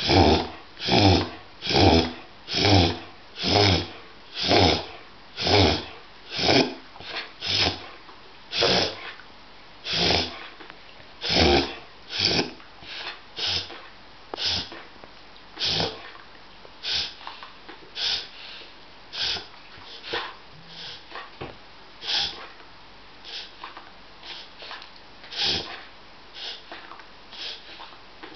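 Dog reverse sneezing, a harmless spasm: repeated forceful pulls of air through the nose. They come about one a second at first, then grow weaker and further apart until they die away near the end.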